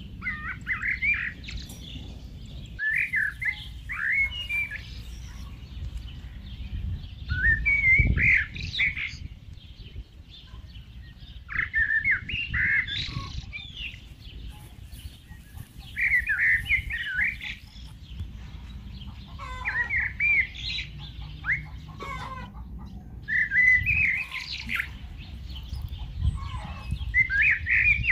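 A songbird singing short phrases of quick, up-and-down chirping whistles, repeated about every four seconds, over a steady low rumble.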